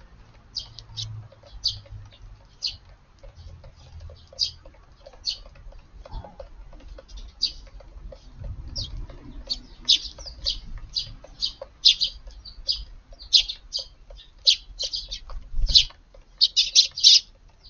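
A flock of Eurasian tree sparrows, mostly this year's fledglings, giving short chirps. The chirps are scattered at first and come thicker and faster in the second half, crowding together near the end.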